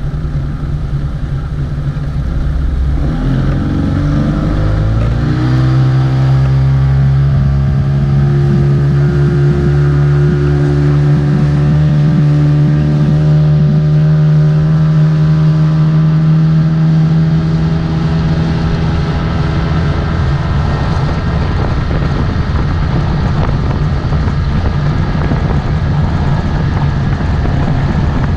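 Motorboat engine running. Its pitch rises over a few seconds as the throttle opens, then holds steady at speed. Later the engine note fades into a broad rush of wind and water noise.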